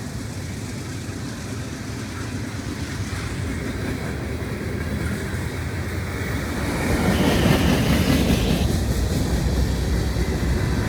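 A train rolling past: steady rumble of its cars and wheels on the rails, growing louder about seven seconds in.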